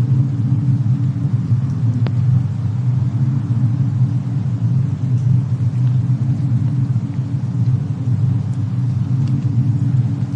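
Fireplace and snowstorm ambience: a steady deep rumble with a few faint crackles, the clearest about two seconds in.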